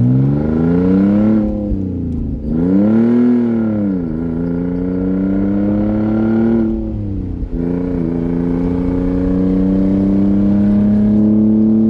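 Open exhaust of a 2003 Audi A4, cut off behind the catalytic converters, heard from inside the moving car as it accelerates. The revs rise and fall several times in the first few seconds, dip sharply at a gear change past the middle, then climb slowly.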